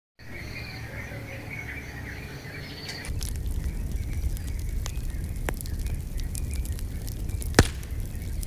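Birds chirping over a low rumble, then about three seconds in a wood fire crackling, with scattered pops and one loud pop near the end.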